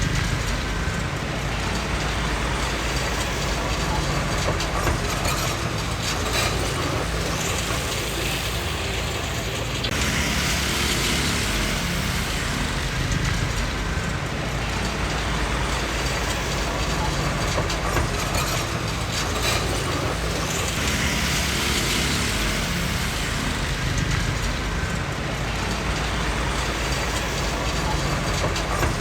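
Komatsu D20P bulldozer working: its diesel engine runs steadily under the clanking of its steel tracks, swelling louder a few times as it pushes and eases off.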